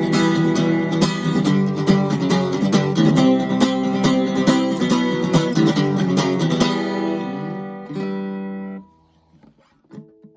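1986 Kramer Ferrington KFS-2 thin-body acoustic-electric guitar being played with picked and strummed chords. Near the end a chord is left to ring and fade, then is damped about nine seconds in, followed by a short silence before the playing starts again.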